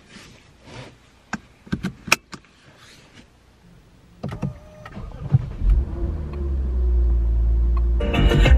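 A few scattered clicks and knocks inside a car cabin, then a little over four seconds in a Lexus car engine starts and settles into a steady low rumble that grows louder. Music comes in near the end.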